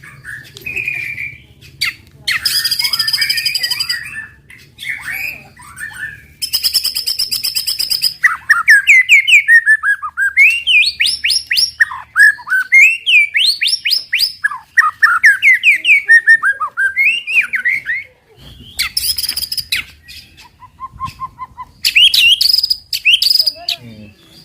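White-rumped shama (murai batu) singing its aggressive 'tembakan' song, used to provoke other shamas into singing: harsh rattling bursts near the start and again near the end, with a long run of rapid, sweeping whistled notes in between.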